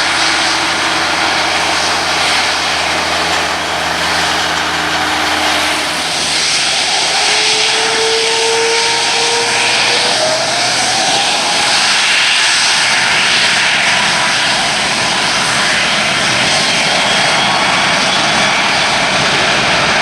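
Airbus A330-243F's Rolls-Royce Trent 700 turbofans running loud, a dense jet roar. A low steady hum drops out about six seconds in, and a whine rises in pitch around eight to ten seconds in, then holds.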